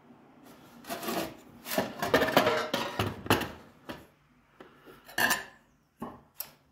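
Light metal clattering and scraping in irregular bursts as an old Thermix catalytic heater's metal parts are handled, loudest in the middle and with a last few knocks near the end.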